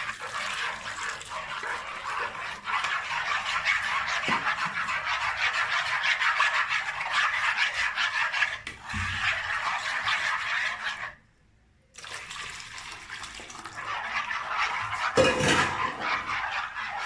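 Liquid custard mixture of hot milk, egg and starch being stirred hard in a bowl, a steady wet splashing and scraping. It breaks off for about a second near the middle and then resumes.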